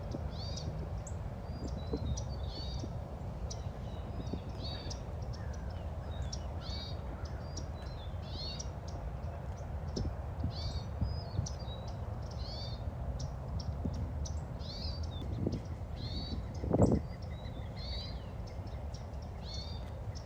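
Birds calling: short, high chirps repeated about once a second, with a louder, lower call near the end, over a steady low background rumble.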